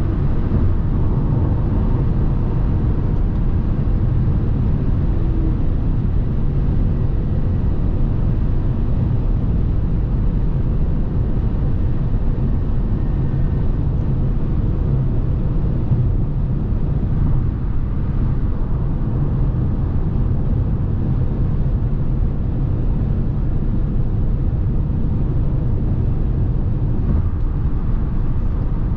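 Steady driving noise from a 2017 Lexus NX 300h hybrid cruising on the motorway: a constant low rumble of tyres, wind and drivetrain with a faint steady whine above it.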